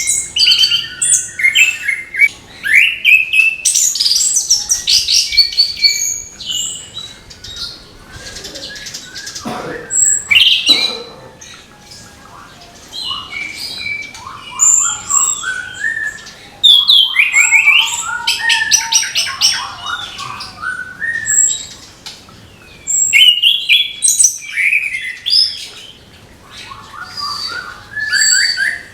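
Orange-headed thrush singing: rapid, varied chirping and twittering phrases in bursts with short pauses between them.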